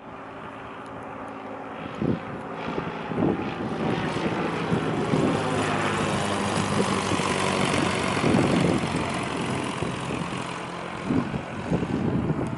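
Small propeller plane's engine droning as it passes, swelling to its loudest about two-thirds of the way through and then easing off, with gusts of wind buffeting the microphone.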